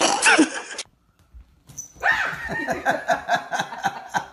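A wild cat's open-mouthed growl, cut off just under a second in. After a short silence, a rapid run of high, pitched yelps, about five a second.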